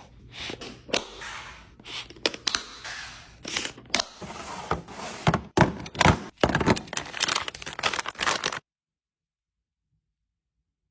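Household items being handled and set in place: a busy run of knocks, clicks and rustles that cuts off abruptly to silence after about eight and a half seconds.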